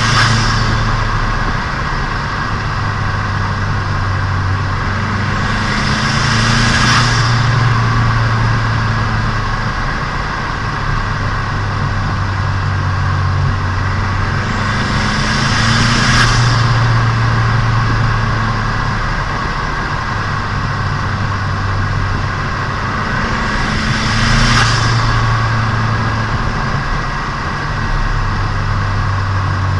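Turbocharged Nissan Micra engine running on the move during its break-in drive. The engine note rises three times, and each rise ends in a short hiss before the note settles back.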